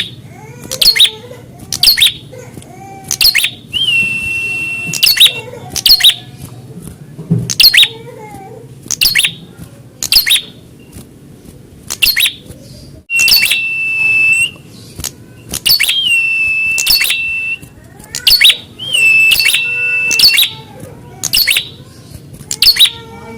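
Prenjak (prinia) calling loudly: sharp, high call notes repeated about one or two a second. Several times these are broken by a steady, held trill lasting a second or so. This is the kind of challenge call that a fighting prenjak is expected to answer.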